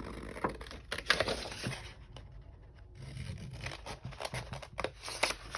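Paper being cut out with scissors: a run of short snips and the rustle of the paper sheet being handled.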